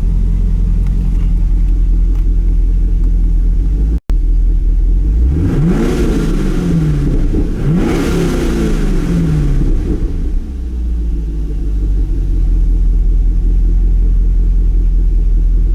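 2014 Camaro SS 6.2L L99 V8 idling, revved twice in the middle, each rev climbing and then falling back to idle.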